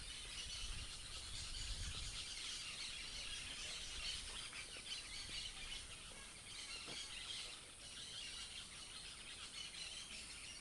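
A flock of birds in one tree chattering noisily: a dense, continuous mass of overlapping high chirps and calls.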